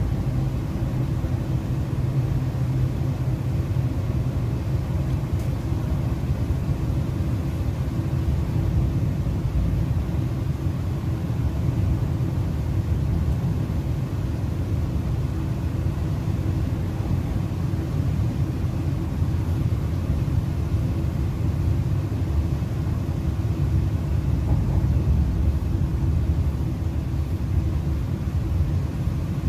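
Inside a moving MTR East Rail Line R-Train, a Hyundai Rotem electric multiple unit, running at speed: a steady low rumble of the wheels on the rails and the car body, with a faint steady hum over it. The sound keeps an even level throughout, with no distinct knocks or announcements.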